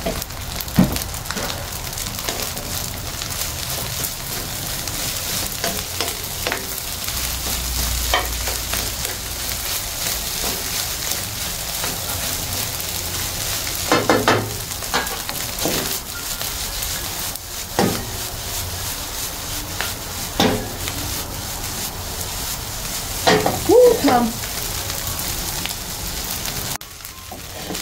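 Fried rice sizzling steadily in a hot pan as it is stir-fried, with a spatula scraping and knocking against the pan now and then, in clusters about halfway through and again near the end. The sizzle cuts off suddenly just before the end.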